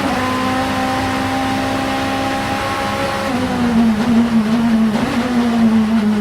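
Vauxhall Vectra Supertouring race car's engine running at high, steady revs; about three seconds in the note drops a little and grows louder, then keeps falling slowly.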